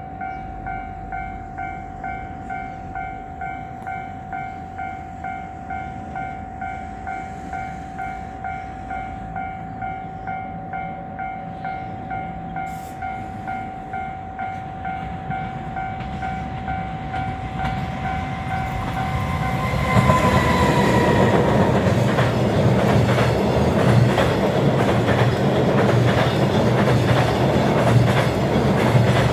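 An electronic level-crossing warning bell ringing steadily, about one and a half strokes a second, for the first twenty seconds or so. It then gives way to a long JR Freight container train passing close by: its wagons rumble, and the wheels clatter over the rail joints.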